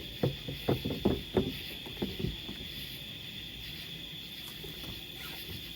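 A quick, uneven run of about eight dull knocks over the first two seconds or so, then only a faint steady hiss.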